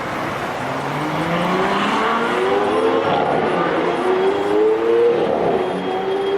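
Naturally aspirated V12 supercar engine and exhaust accelerating hard, its note climbing for about four seconds, dropping briefly about five seconds in, then holding high.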